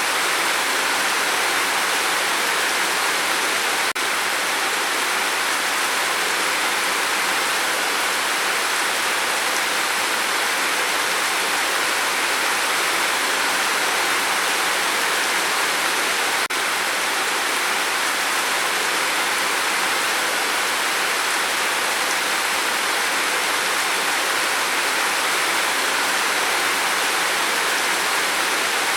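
Steady rain falling, a dense even hiss with no break in it. It dips very briefly twice, about four seconds in and again near the middle.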